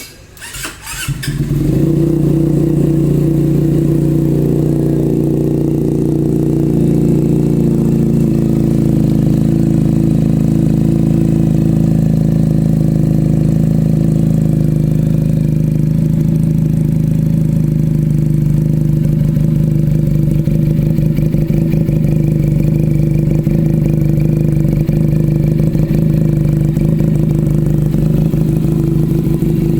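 Benelli TNT 300 parallel-twin engine cranking and catching, then idling steadily and loud through an aftermarket SC Project exhaust with an Akrapovic power bomb header pipe.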